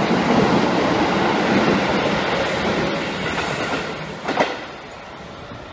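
Electric commuter train running along a station platform, its noise fading over a few seconds; about four seconds in comes a brief loud burst, then a quieter, steady train sound.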